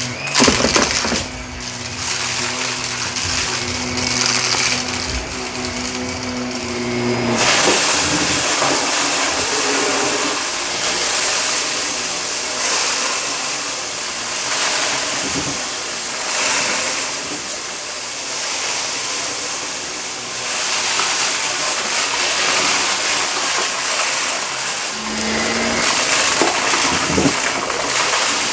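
Shark vacuum cleaner running over carpet, sucking up a sprinkled debris mix. At first a steady motor hum sits over the rush of air. About seven seconds in it changes to a louder, even rushing hiss, with a few small clicks of debris being pulled up.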